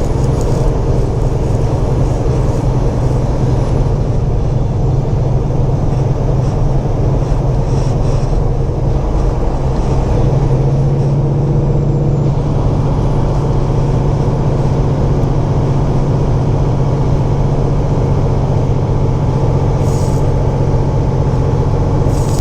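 Semi truck heard from inside the cab while driving: a steady diesel engine drone with road noise.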